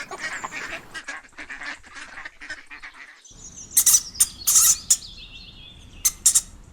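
Ducks quacking in quick runs of short calls. Near the middle the sound changes to louder bursts of quacking in two groups, with high, thin chirps of small birds behind.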